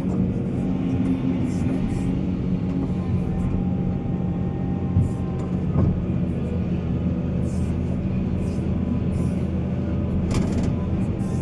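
Heavy diesel machinery engine running steadily under load, with a thin whine above it and a brief clank a little before halfway.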